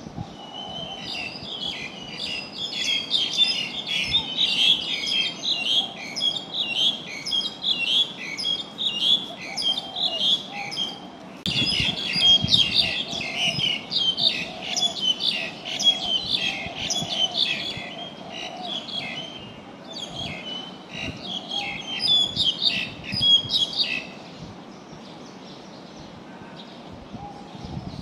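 A flock of small birds chirping busily, many short calls overlapping, until the chirping dies down near the end.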